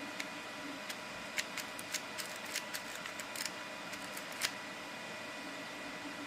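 Scattered light clicks and taps of small plastic parts being handled: 3D-printed TPU slugs being worked into a launcher's magazine. The loudest click comes about four and a half seconds in, over a faint steady hiss.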